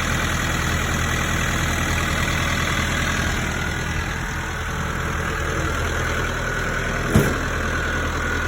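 McCormick X1.45 45-horsepower diesel tractor engine idling steadily, with a single short knock about seven seconds in.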